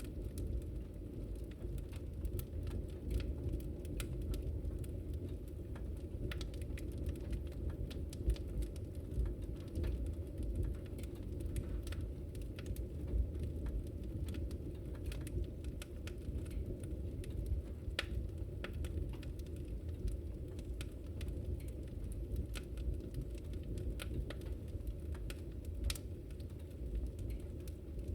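Fireplace fire crackling: many small, irregular pops and snaps over a low, steady rumble of the flames.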